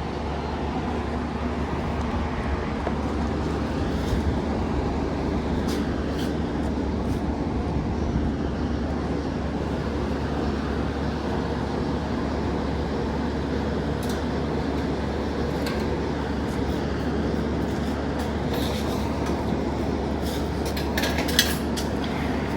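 Steady low vehicle rumble with road-like noise, constant in level, with a few sharp clicks near the end.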